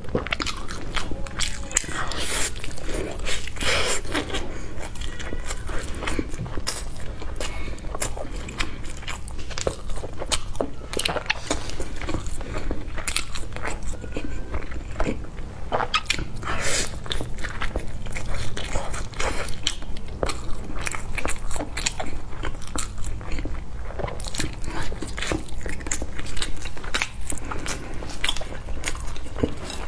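Close-miked mukbang eating: a person biting into and chewing zongzi, a sticky rice dumpling, with dense, irregular wet mouth clicks and small crunches.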